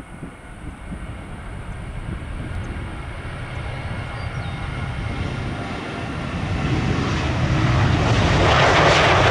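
Jet airliner engines, a low rumble with faint steady whining tones that grows steadily louder and becomes loud in the last few seconds as the aircraft draws near.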